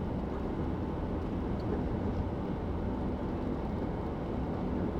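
Steady engine and tyre noise of a car at cruising speed, heard from inside the cabin, with a faint low hum.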